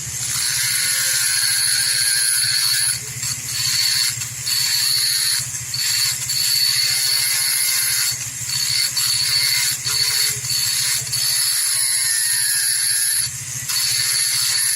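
A power tool running with a steady high whine over a low buzz, cutting out or dipping briefly several times.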